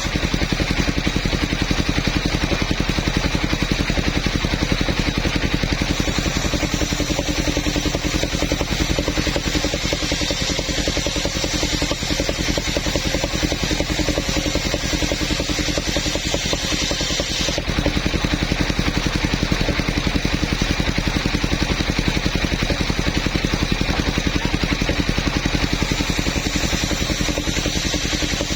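Engine of a mobile sawmill running steadily with an even rapid pulse, its tone changing abruptly about two-thirds of the way through.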